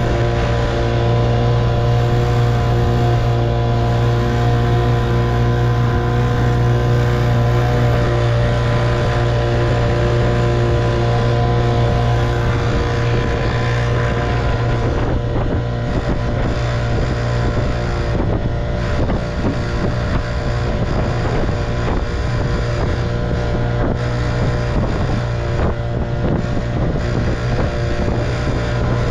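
1958 Evinrude 3 hp two-stroke outboard motor running at a steady speed, pushing the boat along, with a little wind on the microphone.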